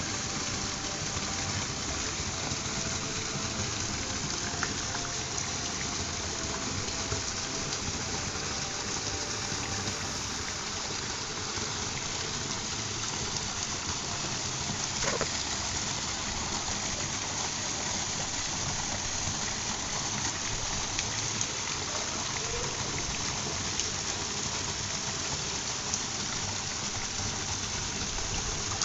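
Waterfall: water pouring and rushing in a steady, unbroken noise.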